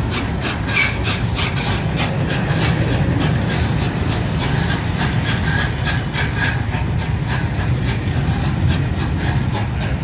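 Three-cylinder Peppercorn A1 steam locomotive 60163 Tornado pulling away under load, its exhaust beating about four times a second over a steady low rumble of the moving train. The beats grow fainter near the end.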